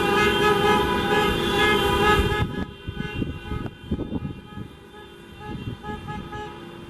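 A vehicle horn held in one long, steady blast that cuts off abruptly about two and a half seconds in. After that comes a quieter background of passing traffic and surf.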